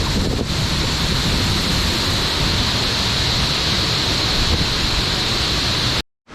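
Waterfall in full flow: a loud, steady rush of falling water that cuts off suddenly near the end.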